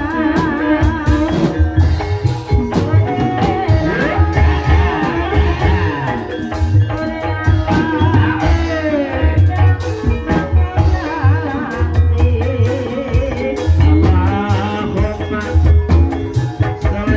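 Live gending ebeg: Banyumasan gamelan accompaniment for a kuda kepang dance, with a singer's wavering melody over drum strokes and repeated deep low beats.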